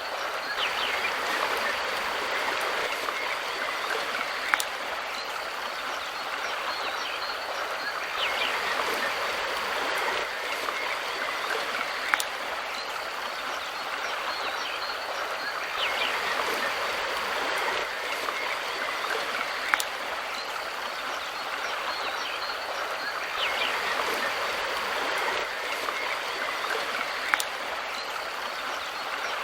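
River water flowing steadily, with a few short bird chirps over it and a sharp click that recurs about every seven and a half seconds, as if the recording is looped.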